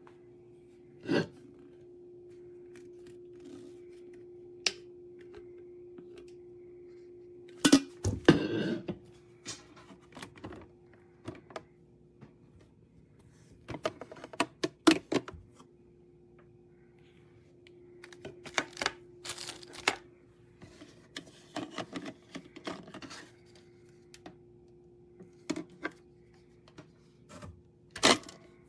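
Scattered clicks and knocks of things being handled, some coming in quick clusters, over a steady hum.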